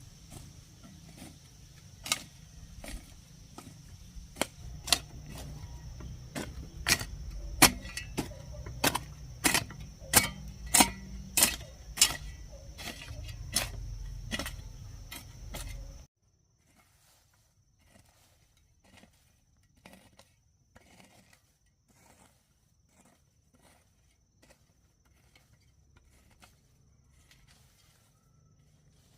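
Irregular sharp knocks, roughly one or two a second and loudest in the middle stretch, over a steady high-pitched whine and a low rumble. About sixteen seconds in the sound drops out suddenly, leaving only faint knocks.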